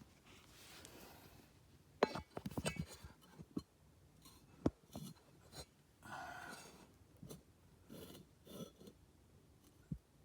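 Faint metal tools being handled: scattered clinks, taps and scrapes, with a quick run of clicks about two seconds in.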